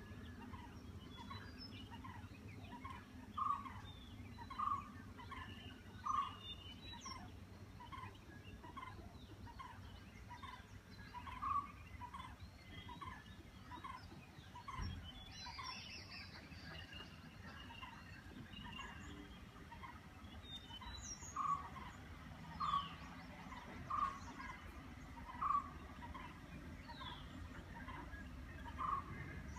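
Birds calling in forest: one bird repeats a short note over and over, somewhat under twice a second, some notes louder than others, while other birds chirp higher up.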